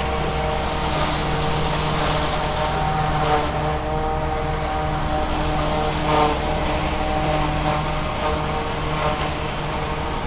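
Tractor engine running steadily under working load, a continuous drone with a low rumble of wind on the microphone.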